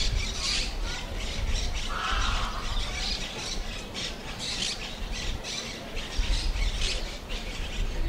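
Birds squawking and chattering in quick, repeated harsh calls, over a low steady rumble.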